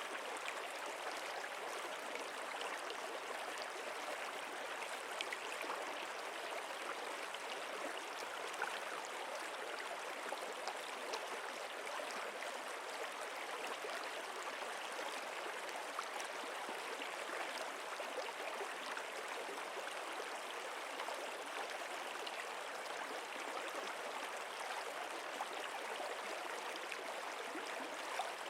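Flowing stream water, a steady, even rush with small splashes and trickles scattered through it.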